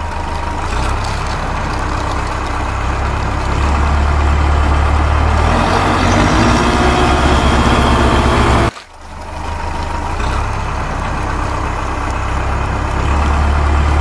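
Heavy engine sound running steadily with a deep low hum, building up over several seconds. It cuts off abruptly about nine seconds in, then starts again and builds the same way, like a looped engine recording.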